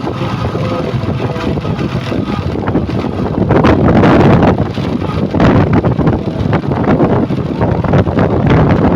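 Heavy truck engine running continuously, growing louder and fuller about three and a half seconds in, with wind on the microphone.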